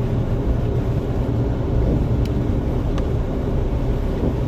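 Steady low rumble of a Jeep Wrangler driving through snow, heard from inside the cabin: engine and 33-inch mud-terrain tyres. Two light clicks come about two and three seconds in.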